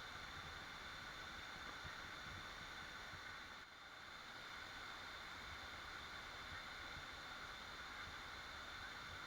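Steady rushing of a waterfall, an even wash of falling water that dips briefly a little under four seconds in.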